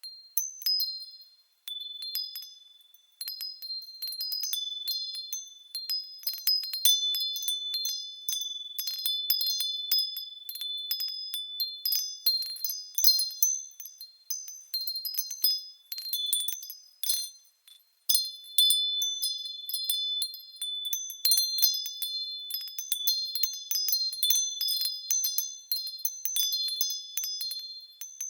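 Japanese furin wind chimes tinkling irregularly as the breeze swings their strikers, several high, clear tones ringing over one another. There are short lulls in the first few seconds and a brief pause about eighteen seconds in.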